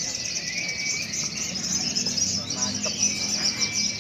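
Caged sogon songbird singing a continuous, rapid, high-pitched twittering song, with a thin held whistle underneath.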